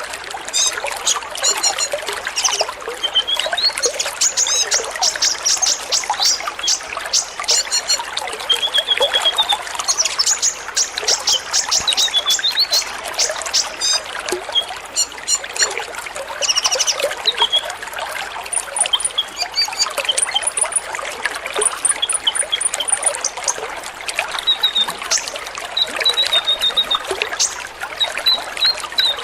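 Many kolibri ninja sunbirds calling together, with thin, high chirps, rapid twittering trills and short whistled notes overlapping without pause.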